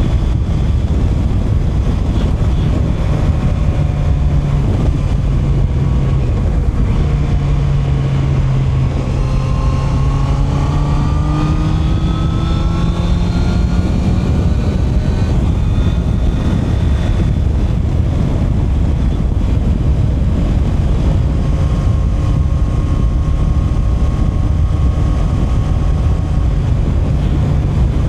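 Honda CB650R's inline-four engine pulling the bike along, its note climbing steadily for several seconds mid-way, then dropping back and holding a steady pitch. Wind rushes over the microphone throughout.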